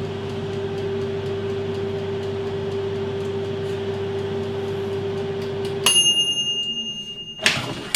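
Air fryer running with a steady fan hum; about six seconds in, its timer is turned round to the end, the fan cuts off and the timer bell dings once and rings out. A short knock follows near the end.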